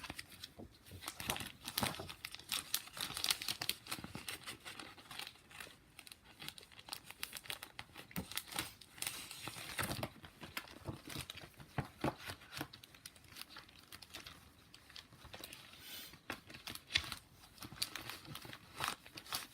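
Paper catalog pages and a binder being handled: irregular crinkling and rustling with scattered small clicks.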